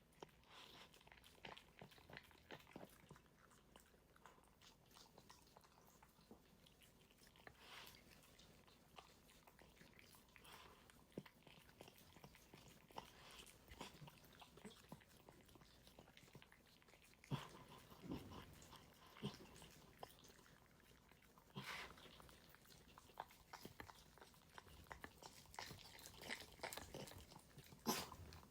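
A dog eating its food: faint, irregular chewing and crunching, with a few louder sharp clicks in the second half.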